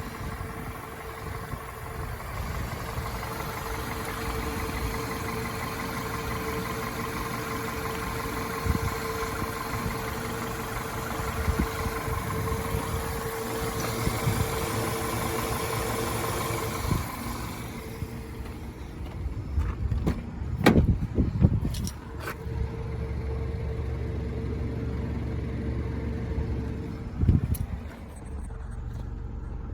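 Honda F23A4 2.3-litre four-cylinder engine idling steadily. A few sharp knocks come about two-thirds of the way through, and another near the end.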